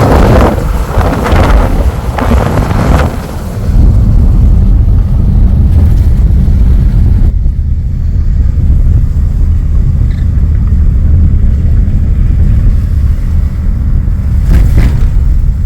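Car on the move: a loud, steady low rumble of road and wind buffeting the microphone, with gusts of hiss in the first few seconds. The hiss drops away about seven seconds in, leaving mostly the low rumble, and a short gust of hiss returns near the end.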